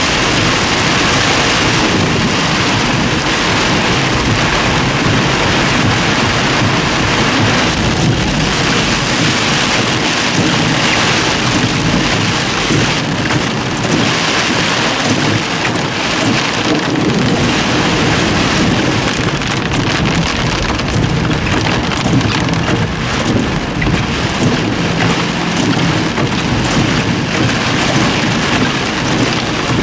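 Torrential rain pouring down, a loud, steady hiss that swells and eases a little.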